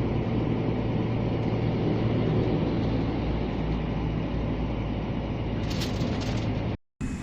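Scania G460 lorry's diesel engine running steadily at cruise, heard from inside the cab, with a few brief high clicks a little under six seconds in. The sound cuts off abruptly just before the end.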